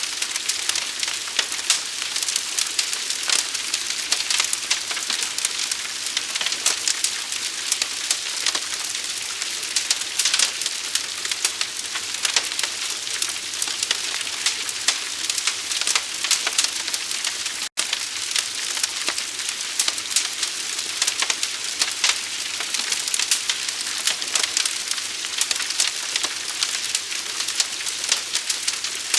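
Forest fire burning: a dense stream of sharp crackles and pops over a steady hiss. The sound cuts out for an instant about eighteen seconds in.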